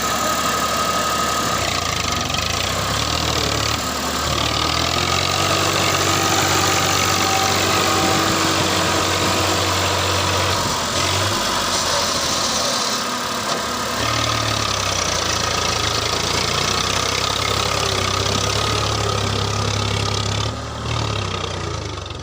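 Massey Ferguson tractor's diesel engine running steadily with a low, even hum.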